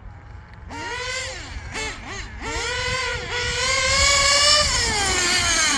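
Twin nitro engines of a custom OFNA Jammin X1 CRT radio-controlled truck revving: a few short blips about a second in, then a high engine note that climbs and holds for a couple of seconds before falling away near the end.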